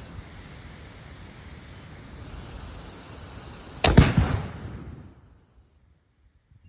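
A .300 Win Mag bolt-action rifle fired at a half-pound Tannerite target: one loud, sharp bang about four seconds in that rings out and dies away over about a second, over a steady hiss of outdoor background noise.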